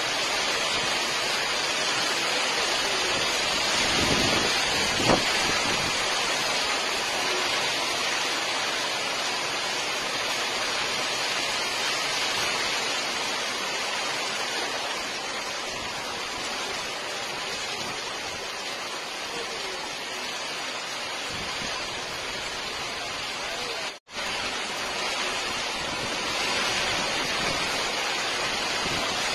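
Torrential rain pouring down steadily, a dense, even hiss of a downpour. The sound drops out for a moment about 24 seconds in.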